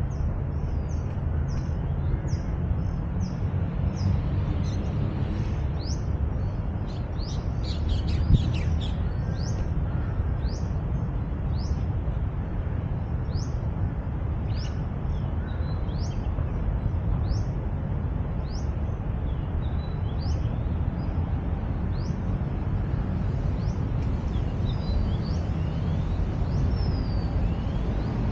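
A bird giving short, high chirps over and over, about one a second, over a steady low rumble of city traffic; a few other birds call near the end.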